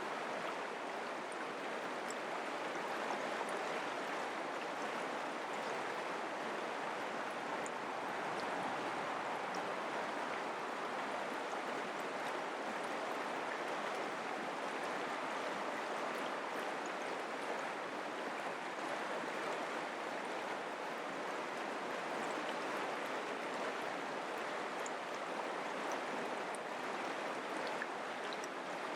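Mountain creek water flowing and burbling over rocks, a steady rushing that holds even throughout.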